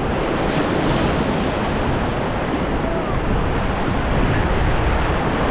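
Rushing white water of the Ganges rapids around the raft, a steady loud noise, with wind buffeting the microphone.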